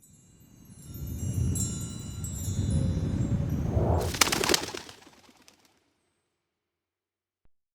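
Opening sound logo: high tinkling chime tones over a low rumble that swells up. A few sharp clicks come about four seconds in, and the sound fades out by about six seconds.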